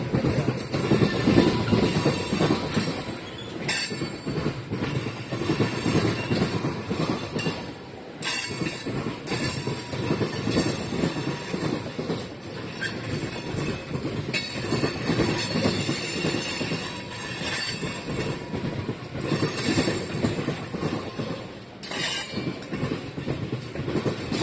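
Tank cars of a freight oil train rolling past, their wheels clacking over the rail joints, with stretches of high-pitched wheel squeal that come and go.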